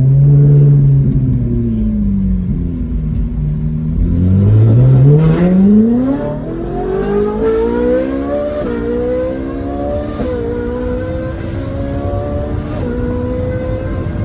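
Ferrari 458's V8 engine accelerating hard: a rev that rises and falls, then a steep climb in pitch about four seconds in, followed by long pulls with drops in pitch at the upshifts. Short sharp cracks come through at several points.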